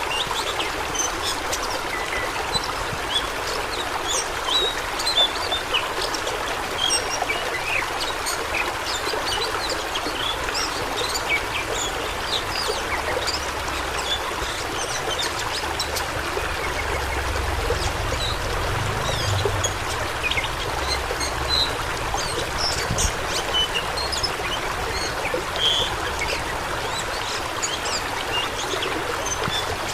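Fast-flowing water rushing and splashing steadily, a continuous stream with many small splashes through it.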